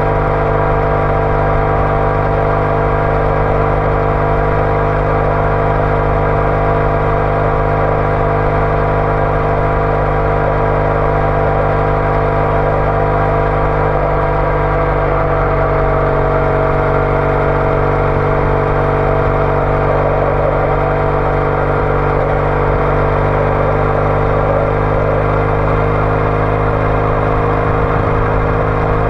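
Triumph Bonneville T214's air-cooled parallel-twin engine running through a TOGA aftermarket exhaust at a steady cruise, with a slight change in engine speed about halfway through.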